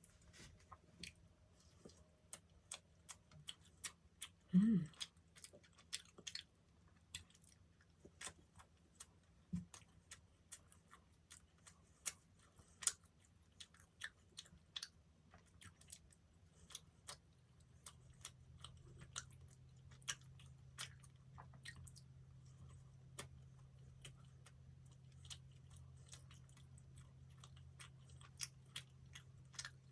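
Close-miked chewing of a soft dessert pastry: many small wet mouth clicks and smacks, with a short hum from the eater about five seconds in. A low steady hum comes in at about eighteen seconds.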